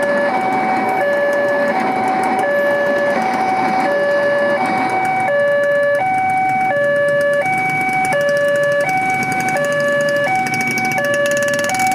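Railway level-crossing warning alarm sounding a steady two-tone hi-lo signal, each tone lasting about three quarters of a second, over a constant rumbling noise. It warns that a train is approaching and the gates are closed.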